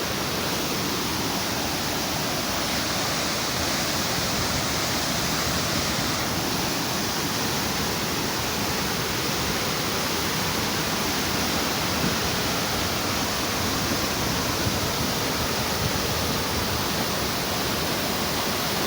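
A large waterfall rushing steadily, an unbroken wash of falling water.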